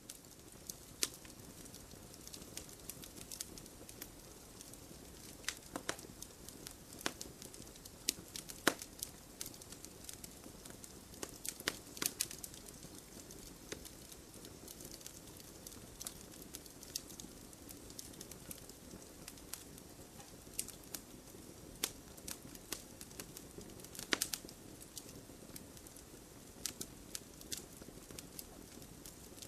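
Wood campfire crackling, with irregular sharp pops and snaps over a low steady rustle; a few louder pops stand out, one near the end.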